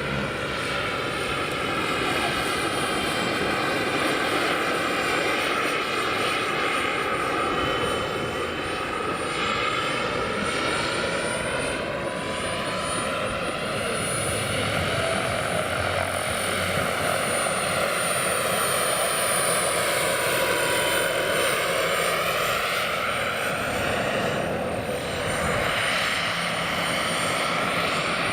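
Large-scale RC model SA-315B Lama helicopter with a turbine engine in flight: a steady high turbine whine over the rotor noise, its tone colour shifting slowly as the helicopter moves about.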